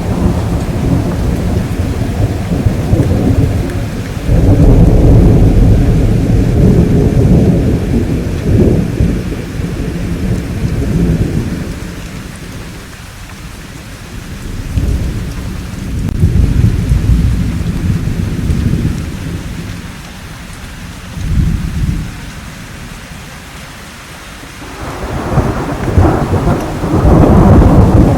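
Thunder rolling over steady rainfall: deep rumbles swell and fade several times, easing to just rain in the middle, then a louder peal near the end.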